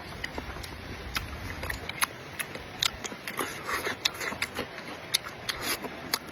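Close-up eating sounds: wet chewing and mouth smacks with irregular sharp clicks, several a second.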